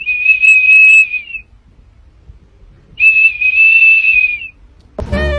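Small plastic whistle held in a golden retriever's mouth, sounding two long, steady high notes of about a second and a half each as the dog breathes through it, each dipping slightly in pitch at its end. Music with saxophone starts near the end.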